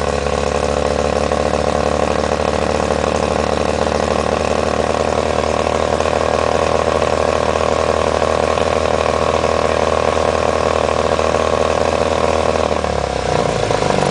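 Johnson Super Sea Horse 40 hp two-stroke outboard running steadily at raised revs, the highest throttle it allows in neutral, out of the water on flushing muffs with no load. The revs drop as the throttle is eased back near the end.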